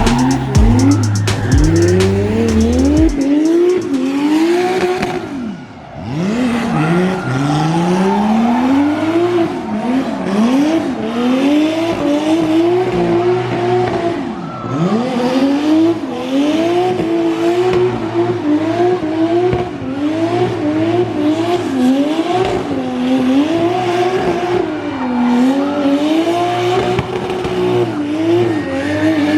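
Drift car engine revving hard over and over, its pitch climbing and dropping every second or so as the throttle is worked, with tyre squeal.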